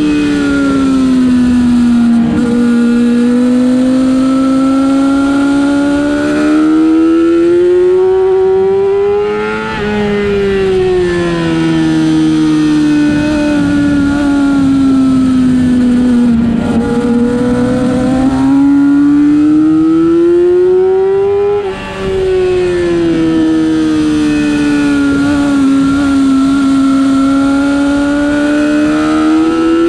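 Race motorcycle engine heard onboard at racing speed. Its note sinks as the bike slows, then climbs steadily under throttle, with a quick upshift drop about ten seconds in and another about twenty-two seconds in.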